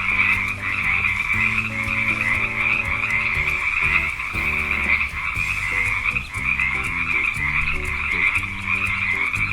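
Frog chorus calling in a continuous, dense trill, over a simple background melody.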